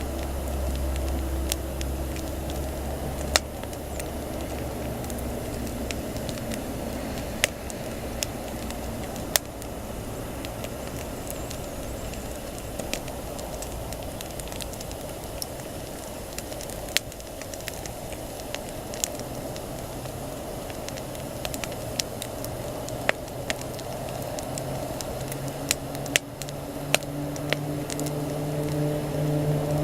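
Wood campfire crackling, with scattered sharp pops over a steady hiss. A low steady hum runs underneath and grows louder near the end.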